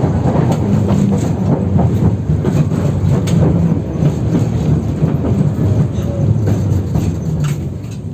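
A 71-608KM tram running on badly worn rails, heard from inside the car: a steady low rumble with rattling and wheel clicks over the track. It grows quieter near the end.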